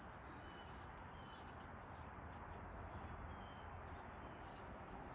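Faint outdoor ambience: a steady low hiss with a few short, faint high chirps scattered through it.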